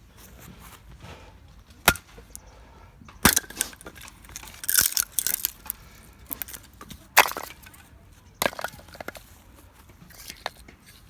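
A string of sharp cracks and clacks with no steady sound under them: single loud ones about two and three seconds in, a quick cluster around five seconds, and another loud one about seven seconds in.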